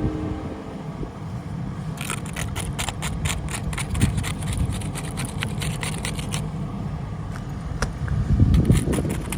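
Steady low rumble, like a vehicle running, with a run of rapid crisp clicks and crackles for several seconds in the middle and again near the end, and a louder swell of the rumble near the end.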